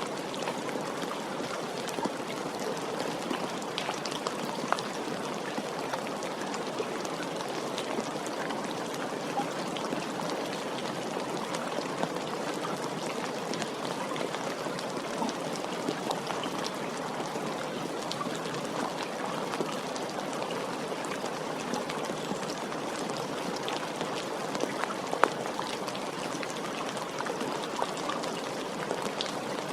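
Steady, gentle rain falling, an even hiss with scattered single drop ticks and one sharper drip about 25 seconds in.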